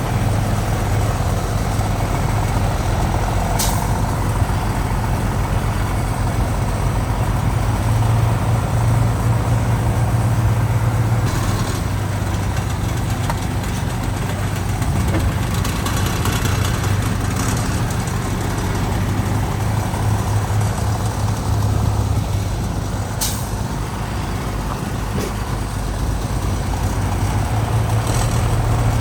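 Heavy diesel construction machinery running steadily, its low engine drone swelling and easing. Two short, sharp hisses cut through, one a few seconds in and one near the end.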